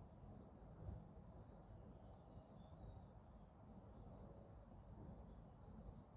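Faint birdsong: small birds chirping in quick short notes throughout, over a low steady background rumble.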